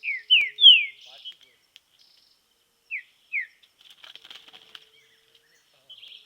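Green-winged saltator (trinca-ferro) singing: short, clear whistled notes that slide downward in pitch. It gives three in quick succession, each louder than the last, and two more about three seconds in, with softer twittering between.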